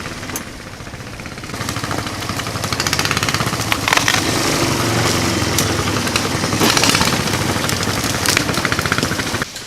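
The mini-bike trike's 420cc single-cylinder engine running, louder under throttle as it is ridden, with a fast, chattering exhaust beat.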